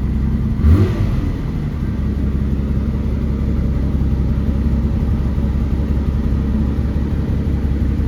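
1972 BMW 3.0 CS's straight-six engine idling steadily just after a cold start, running a little high while it warms up. A brief louder burst just under a second in.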